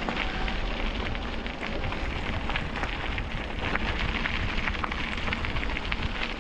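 Steady crackling rumble of tyres rolling over a rough towpath during a ride, with wind buffeting the camera microphone.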